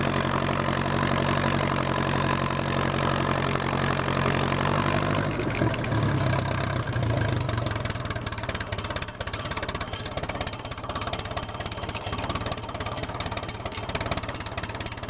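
1957 Ferguson FE35's four-cylinder petrol/TVO engine running steadily, then throttled back about five seconds in and settling to an even tick-over from about seven seconds.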